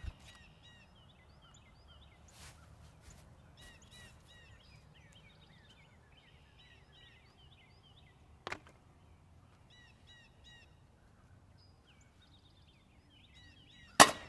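Small birds chirping over a faint low rumble, with a sharp knock about halfway through and a louder, sharp impact near the end.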